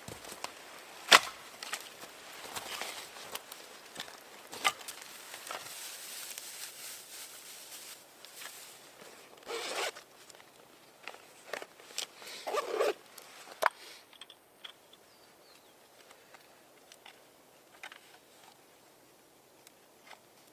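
A zipper being worked in a few short rasping pulls, among sharp clicks and knocks of handling; after about 14 seconds only faint ticks remain.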